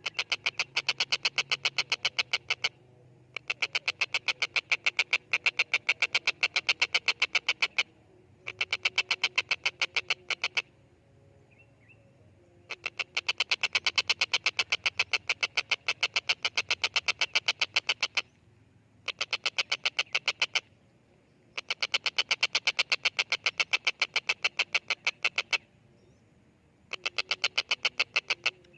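Stork-billed kingfisher (tengkek buto) calling in repeated bouts of rapid, harsh, evenly spaced notes, about seven a second. Each bout lasts two to five seconds, with short pauses between them.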